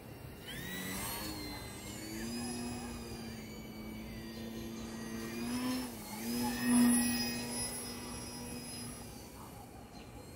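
E-flite Eratix's electric motor and propeller buzzing as the foam plane flies low past, with a steady pitched hum. The pitch dips briefly about six seconds in, the sound is loudest just after, then it fades near the end.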